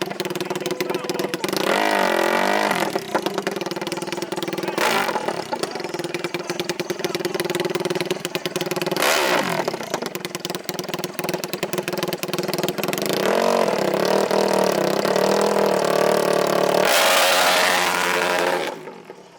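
Small off-road engines running and revving, with brief loud rushes about 5 and 9 seconds in. A longer loud stretch near the end cuts off suddenly.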